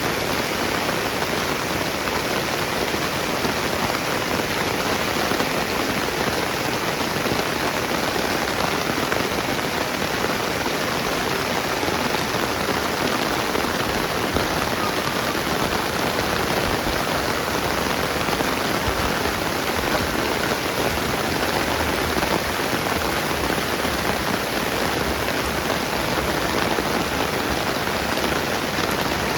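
Steady rain falling on the ground and nearby surfaces, an even, unbroken hiss of many drops.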